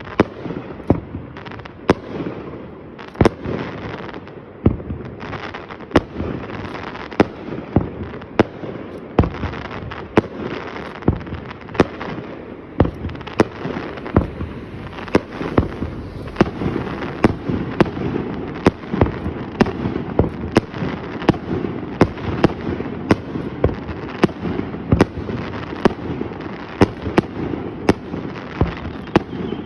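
Fireworks display: sharp bangs of bursting shells, about one a second at first and coming faster in the second half, over continuous crackling and rumbling.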